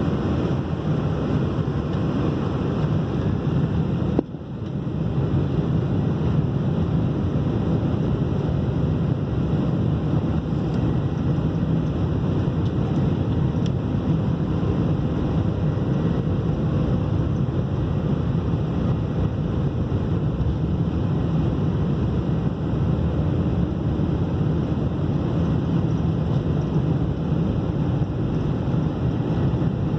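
Steady rushing engine and airflow noise inside an airliner's cabin during takeoff and climb. About four seconds in the sound drops out briefly and returns.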